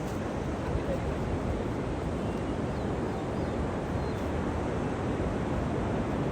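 Steady rush of sea surf mixed with wind noise, with no distinct events.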